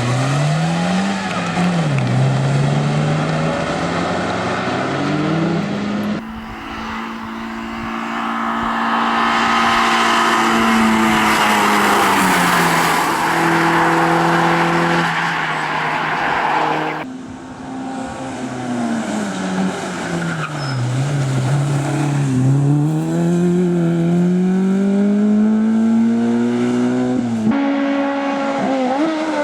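Race car engines revving hard, pitch rising and falling through gear changes, with tyres squealing through the middle stretch. The sound changes abruptly three times as one car gives way to the next.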